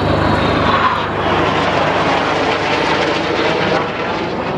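Aircraft in flight, its engine noise a loud, steady roar that dips slightly near the end.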